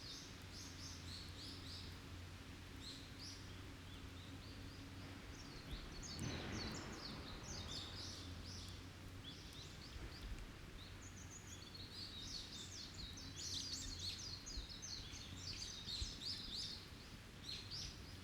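Small forest birds chirping and twittering in quick trills, busiest in the last few seconds, with a brief rush of noise about six seconds in and an occasional faint crack from an open wood fire.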